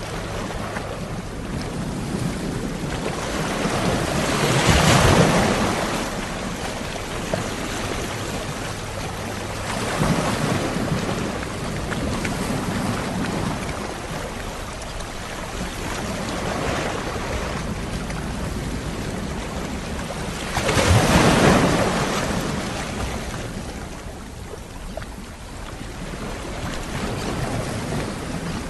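Ocean waves breaking on a shore in a continuous wash of surf, swelling and receding every few seconds, with the two biggest breaks about five seconds in and near twenty-one seconds.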